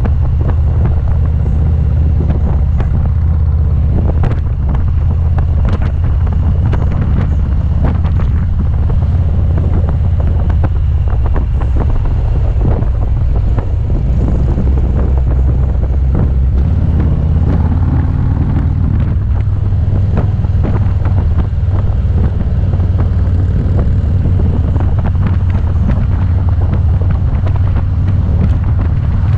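Motorcycle engine running steadily at speed, a loud low rumble, with wind buffeting the microphone.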